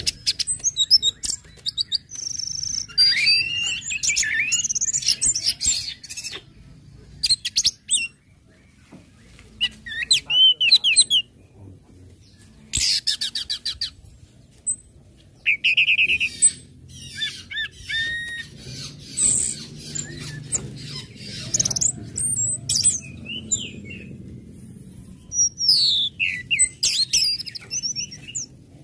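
Orange-headed thrush singing in repeated bursts of quick, varied phrases: chirps, fast trills and sliding whistles, with short pauses between them.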